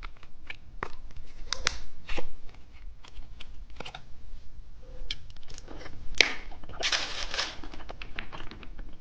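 Plastic wrapper of a cheese stick snack being handled and opened: a run of small clicks and crinkles, with a sharp click about six seconds in and a brief burst of rustling just after.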